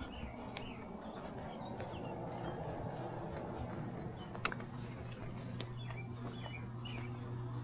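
Birds chirping outdoors over a steady low electrical hum that grows louder, from an outdoor air-conditioning unit's compressor running while its condenser fan is not spinning. A single sharp click sounds about halfway through.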